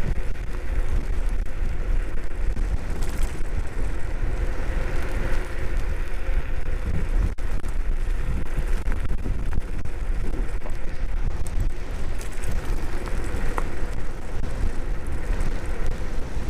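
Strong wind buffeting the microphone while riding a Nanrobot D6+ dual-motor electric scooter: a constant, fluttering low rumble with a faint steady hum from the moving scooter beneath it.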